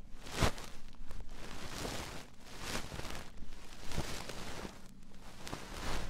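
Close-up scratching and rustling strokes, coming irregularly one after another.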